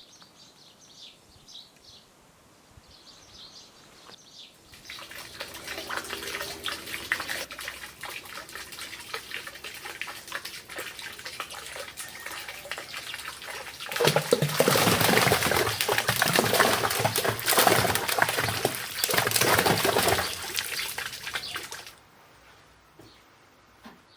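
Running water splashing steadily, louder in its second half, then cutting off suddenly near the end. Faint bird chirps are heard before the water starts.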